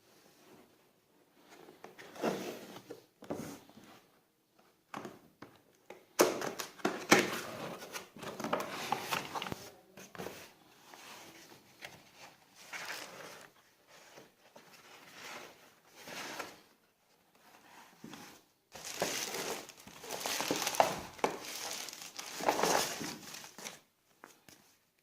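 Irregular crinkling and rustling of something being handled, coming in bursts, loudest about seven seconds in and again from about nineteen to twenty-three seconds.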